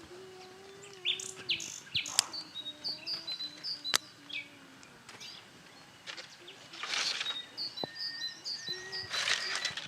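Birds chirping, with many short high calls repeating. There are a few sharp clicks and two brief harsher noisy bursts in the second half.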